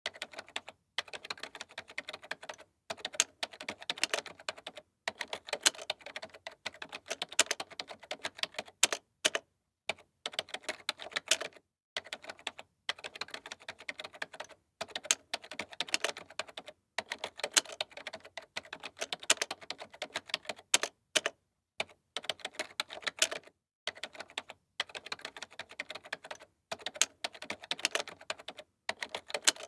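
Fast typing on a computer keyboard, rapid key clicks in bursts of a second or two with short pauses between them, a louder stroke standing out now and then.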